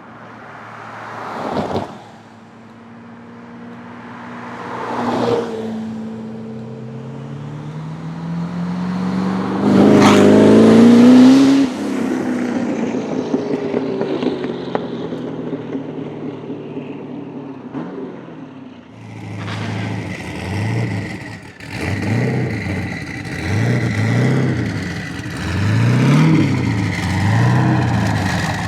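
Mazzanti Evantra Millecavalli's twin-turbo V8 accelerating hard past: its note climbs in pitch to the loudest point about ten seconds in, then falls away. From about two-thirds of the way through, the engine is revved in about six short blips.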